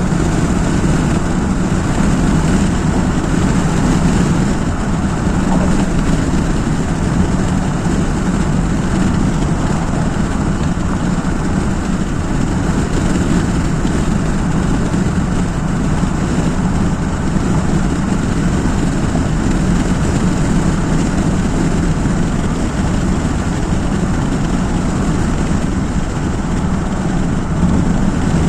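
Steady road and engine noise of a vehicle driving along a highway, a constant low rumble with no changes.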